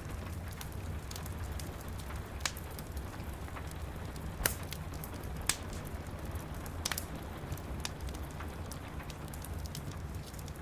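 Wood fire crackling in a fireplace, sharp pops scattered through it, the strongest about halfway through, over a steady hush of rain.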